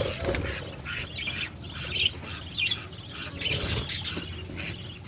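Pet budgerigars chattering: a busy run of short squawks and chirps.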